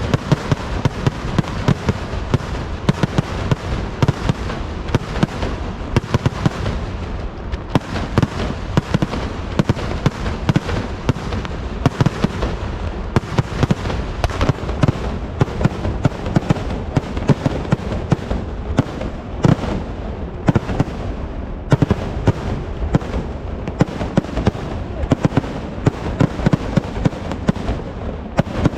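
Kerala festival fireworks (vedikettu): a dense, unbroken barrage of firecracker bangs, many a second.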